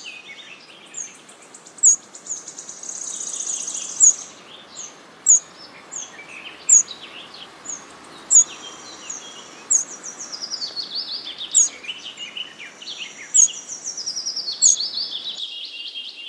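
Songbirds calling and singing: sharp, high chirps repeating about every one and a half seconds over fast, high twittering trills. A steady hiss underneath stops shortly before the end.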